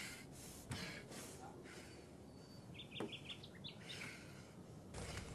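Faint bird chirping: a quick run of short, high chirps about three seconds in, and a few more just after, over soft background noise.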